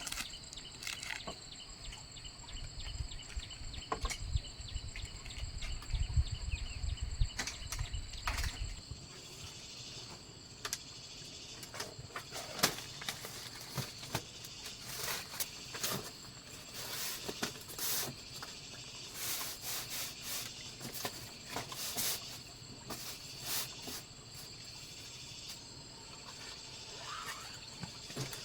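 Insects chirring steadily outdoors, with scattered clicks and knocks from something being handled. A low rumble runs through the first nine seconds or so.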